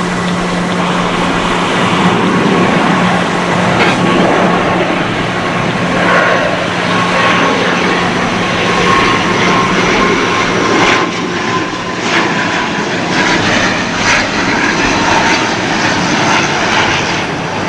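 ATR 72-600 turboprop airliner's twin Pratt & Whitney PW127 engines and propellers, a steady loud drone with a high whine that slowly falls in pitch.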